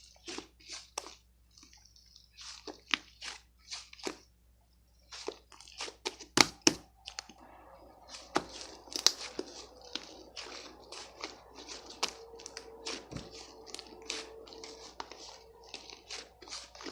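Crunching and chewing of something crisp, with sharp crunches a few times a second. A faint steady hum joins about seven seconds in.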